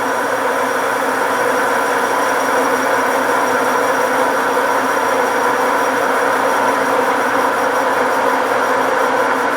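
Metal lathe running steadily, a constant machine hum with a whine above it, while it takes a facing pass across a cast pulley.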